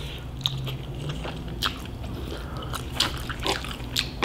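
Close-miked chewing of a mouthful of Korean cold noodles (bibim-men): scattered short wet smacks and clicks from the mouth over a faint steady low hum.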